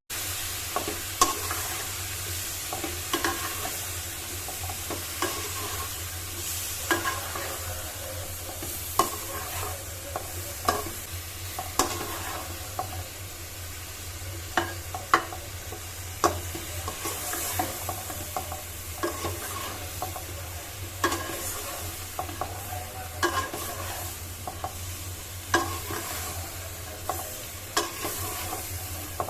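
Spatula stirring and scraping potatoes and flat beans as they are sautéed in spice paste in a pan, under a steady sizzle. Scrapes come about once a second, this being the kosha stage of frying the masala.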